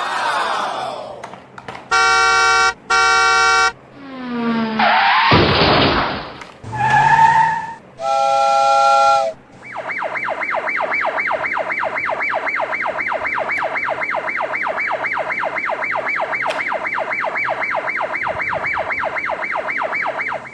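A string of cartoon-style sound effects: a falling glide, two short horn-like honks, a rising sweep and a held chord-like tone. Then, for the last half, a fast warbling siren that repeats about four times a second.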